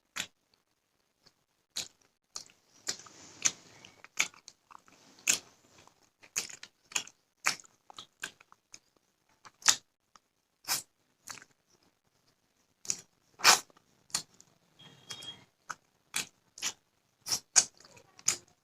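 Close-up eating sounds: crisp bites and chewing of raw cucumber and onion with rice and fish, coming as irregular sharp crunches and mouth clicks.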